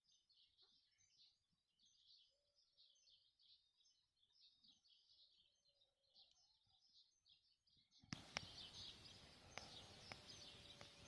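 Faint, continuous chirping of birds. About three seconds before the end, a louder, even rushing noise comes in suddenly, with a few sharp clicks in it.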